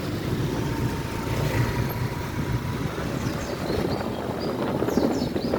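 Motorbike engine running steadily with a low rumble, together with road and wind noise.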